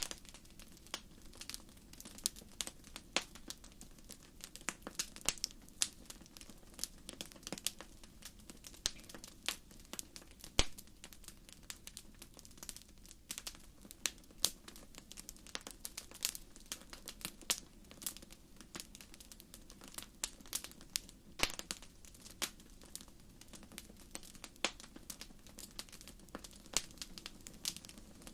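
Wood fire crackling in a fireplace: a dense, irregular stream of sharp pops and snaps over a low steady roar of the flames, with a few louder pops.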